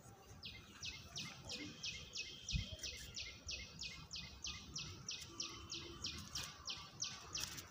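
A bird calling a long, even series of short high notes, about three a second, that stops near the end. There is a brief low thump about two and a half seconds in.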